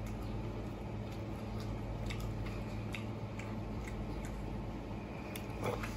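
A person chewing and gnawing meat off a roast leg of lamb, with scattered soft wet mouth clicks and smacks over a steady low hum.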